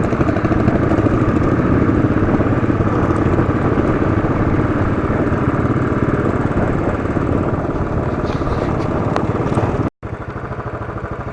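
Royal Enfield Classic 500's single-cylinder engine running at low speed on a rough dirt road, with a steady beat of firing pulses. About ten seconds in the sound drops out for a moment and comes back quieter.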